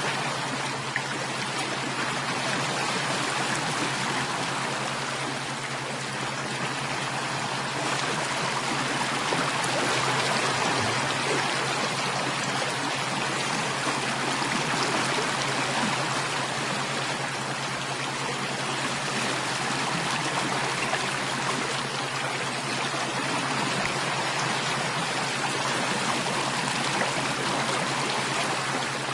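Stream water flowing steadily, a continuous babbling rush with a low steady hum underneath.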